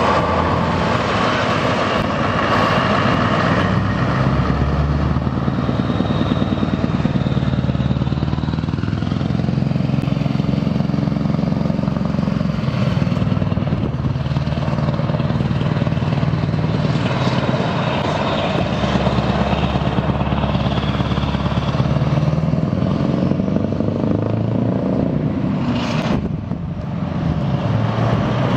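Heavy Scania truck diesel engines running as trucks drive past, the engine note rising and falling as they pull along. The level dips briefly near the end.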